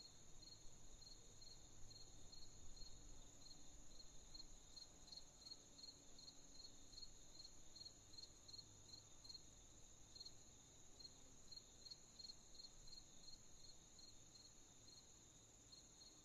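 Faint night chorus of crickets: a steady high trill, with a slower run of even chirps at roughly three a second beneath it.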